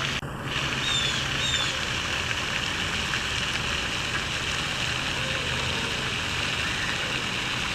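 Steady rushing noise, like flowing water or wind, that cuts out briefly just after the start. Two or three faint, short, high bird chirps come about a second in.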